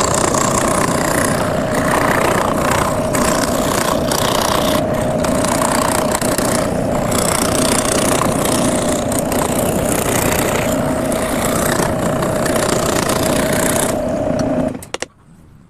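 Electric woodworking power tool running steadily with a constant hum, stopping abruptly just before the end.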